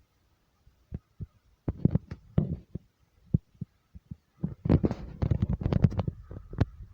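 Irregular knocks and thumps, a few scattered at first, then a dense run of them in the second half.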